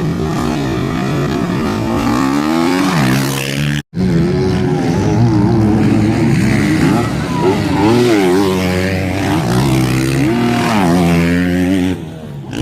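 Motocross bike engines revving, their pitch rising and falling again and again as the throttle is opened and closed. The sound cuts out abruptly for a moment about four seconds in.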